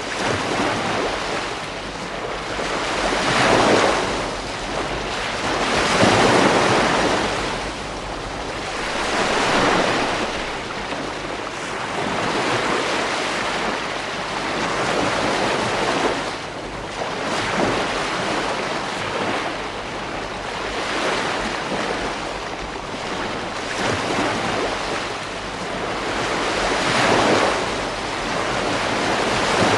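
Ocean surf washing onto a beach: a steady rush of water that swells with each breaking wave, about every three to four seconds.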